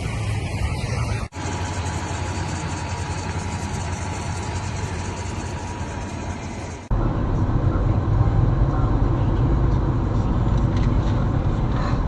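Steady road and engine noise of a moving car, in three spliced pieces with abrupt cuts about a second in and about seven seconds in; the last piece is louder, with a heavier low rumble.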